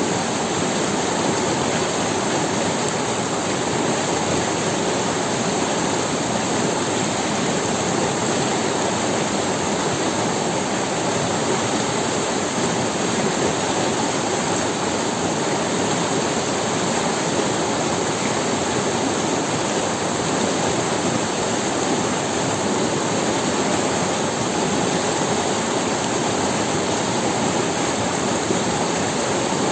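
Forest river rushing steadily over stones: an even, unbroken rush of running water.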